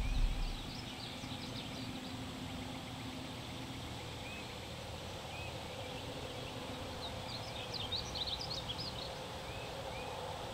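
Wild birds chirping and singing in steady outdoor ambience, with a flurry of quick high chirps about seven seconds in.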